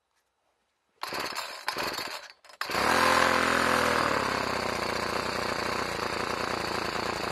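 Small two-stroke engine starting: it sputters for about a second, cuts out briefly, then catches and runs fast and steady. It is running with the choke on, mistakenly left engaged.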